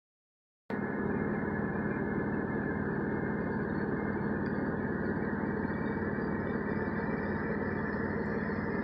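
Semi truck's diesel engine running steadily, heard from inside the cab, with an even low hum; it starts abruptly less than a second in.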